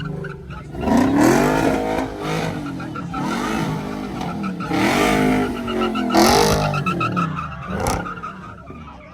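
A high-powered car engine revving hard several times, its pitch rising with each rev, with tire squeal over it.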